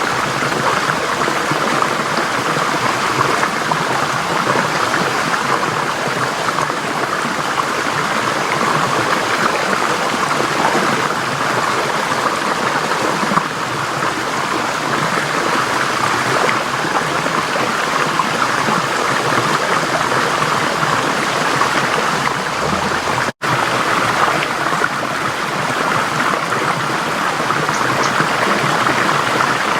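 Forest stream flowing, a steady rush of water. It cuts out for an instant about three quarters of the way through.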